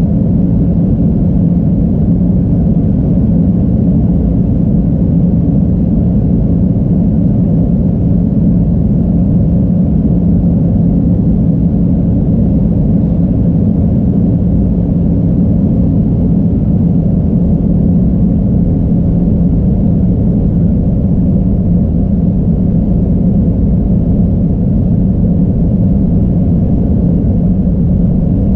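Steady low drone of an airliner heard inside the passenger cabin: engine and airflow noise with a constant hum and no change in pitch.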